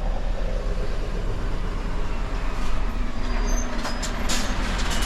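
Lorry engine running steadily, heard from inside the cab, with a few short clicks and hisses about three to four seconds in.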